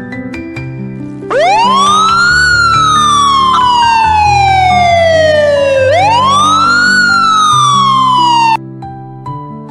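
Emergency-vehicle siren wailing over soft background music: two cycles, each climbing quickly in pitch and then sliding slowly down. It starts about a second in and cuts off suddenly near the end.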